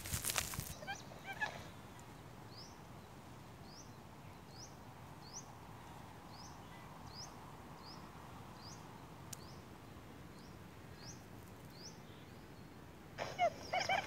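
A brief loud rustle at the start, then a small bird repeating a short, high rising chirp about twice a second. Near the end, loud honking bird calls break in suddenly.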